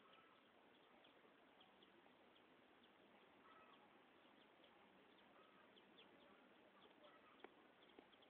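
Faint outdoor ambience with scattered short bird chirps, and a sharp click about seven and a half seconds in.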